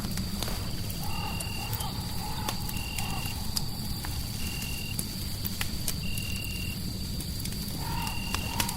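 Crackling fireplace: scattered sharp pops and snaps over a steady low rumble of noise. Layered over it are a short high chirp repeating about every second and a half, and a wavering mid-pitched tone from about a second in until past three seconds, returning near the end.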